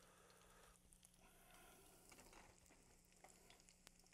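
Very faint sizzle of breaded arancini (risotto balls) frying in oil in a stainless-steel skillet, with a few light clicks as metal tongs turn them.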